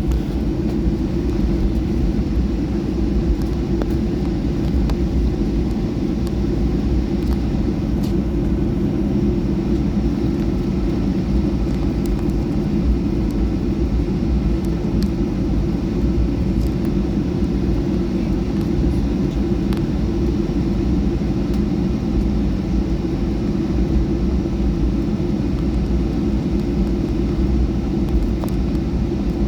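Steady low rumble inside the cabin of a Boeing 737-800 with its CFM56 engines running, and a few faint clicks and rattles.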